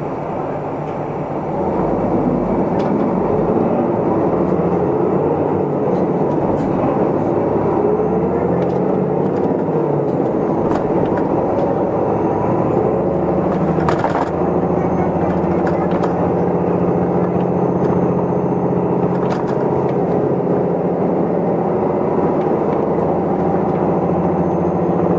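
Isuzu Erga Mio city bus heard from inside the cabin: its diesel engine gets louder about a second and a half in as the bus pulls away, rising and changing pitch through the gears, then runs steadily at cruising speed. There is a single click near the middle.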